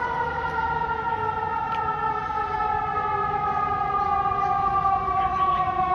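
Emergency vehicle siren wailing. Having just climbed to its top pitch, the tone slides slowly and steadily downward, over a low rumble of traffic and engine noise.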